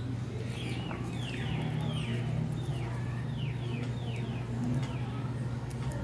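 A bird chirping repeatedly in the background, about eight short falling chirps, over a steady low hum. Faint clicks come from plastic toy vegetables being handled.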